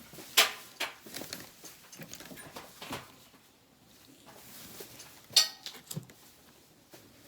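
Intermittent knocks and clatter of handling work, with two sharp clanks: one about half a second in and one a little after five seconds, the second briefly ringing.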